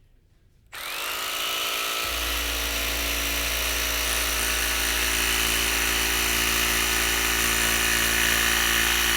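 Jigsaw switched on about a second in, its motor spinning up and then running steadily as the blade cuts around a curve in a clamped wooden board.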